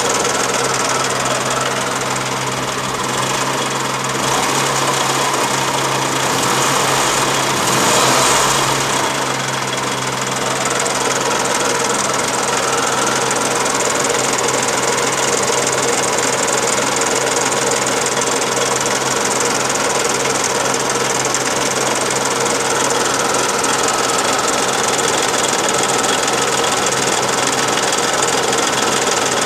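1985 Daihatsu Charade's three-cylinder engine running with a steady knocking, rattling noise, the strange noise whose cause is unknown. It swells briefly about eight seconds in.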